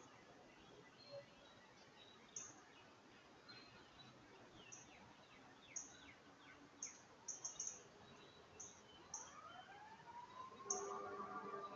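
Faint birdsong from several birds: many short falling chirps and high thin calls. A faint tone rises about nine seconds in and then holds steady.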